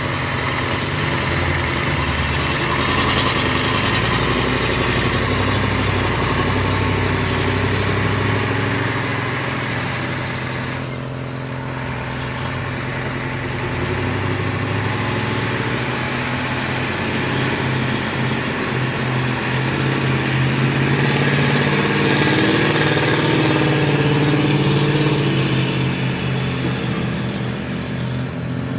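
Heavy vehicle's engine running steadily, its note shifting up and down as it works, with a brief lull about eleven seconds in.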